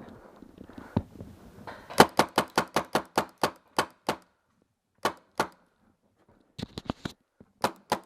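Paintball marker firing: a rapid string of about a dozen shots at roughly five a second, then shorter bursts and single shots.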